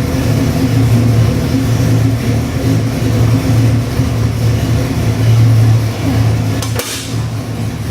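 Ford 408 Windsor stroker small-block V8 with a hydraulic roller cam, running at a steady idle, its low exhaust note swelling and easing about once a second. There is a single sharp click about seven seconds in.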